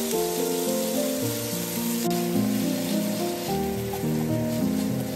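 Chicken breast pieces sizzling in a hot frying pan, a steady hiss, under background music with a simple melody of held notes.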